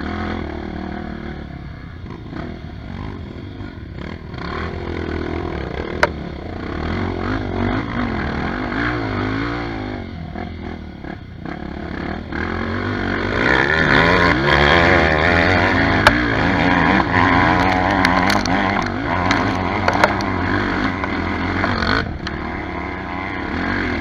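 Off-road trail motorcycle engine revving up and down under load, its pitch rising and falling. It gets louder about halfway through, with a few sharp knocks.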